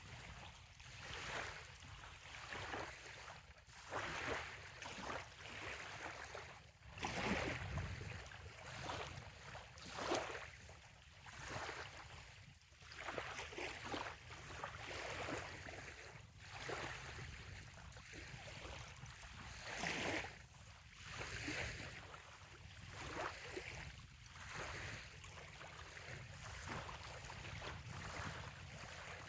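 Small waves lapping on a sandy bay shore: soft washes of water that swell and fade every second or two, over a low steady rumble.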